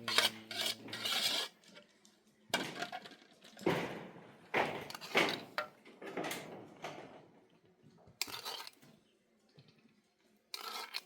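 Pots, dishes and metal utensils clattering and scraping as they are handled, in irregular bunches with short quiet gaps.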